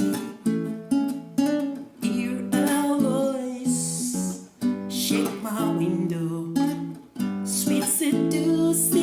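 Acoustic guitar music, plucked and strummed notes, with a singing voice.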